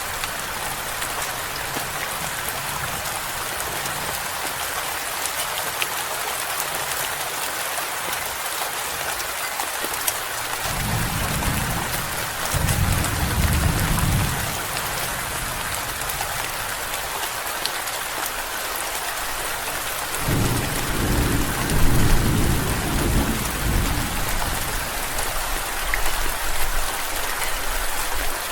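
Steady heavy rain falling, with rolling thunder rumbling twice, about ten seconds in and again about twenty seconds in.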